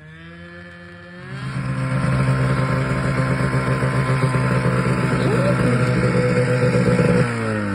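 Arctic Cat Cougar 550 snowmobile's two-stroke engine breathing through a new muffler: it revs up about a second in, runs at steady high revs, then the revs drop off near the end.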